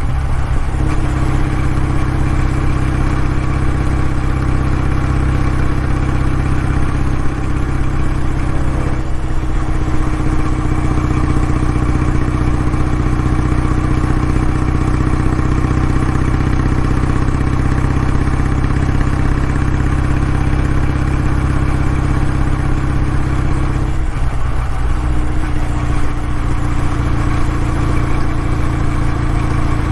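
Kawasaki W650's air-cooled parallel-twin engine running steadily through its exhaust, an even note that wavers briefly three times.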